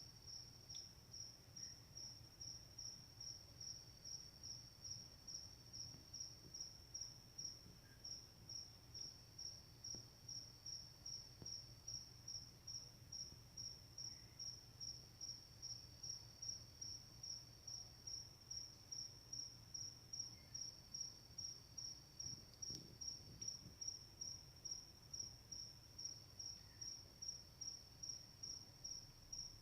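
Crickets chirping at night. One high chirp repeats steadily about twice a second, and a second, lower trill comes in for a few seconds at a time and drops out again.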